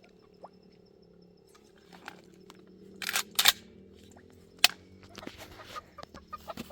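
A few sharp knocks or clicks over a faint low hum: two loud ones about three seconds in, a third about a second later, then smaller ticks.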